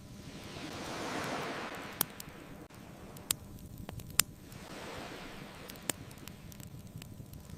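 Ocean waves washing ashore, two swells rising and falling, with a bonfire crackling: four sharp pops, the loudest about four seconds in.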